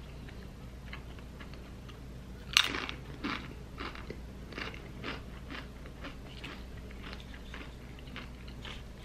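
A crisp tortilla chip dipped in queso is bitten with one loud crunch about two and a half seconds in. Crunchy chewing follows at about two chews a second and grows fainter.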